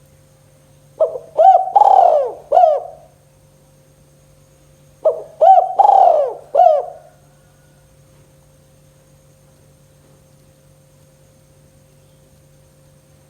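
Spotted dove cooing: two phrases of about four notes each, a few seconds apart.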